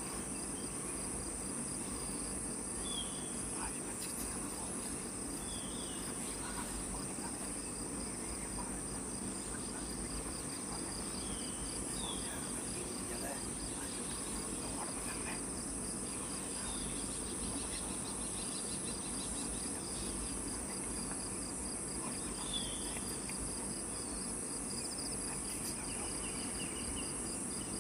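Steady, high-pitched chorus of forest insects, a continuous shrill buzz with a faster pulsing trill beneath it, and a few short bird chirps scattered through.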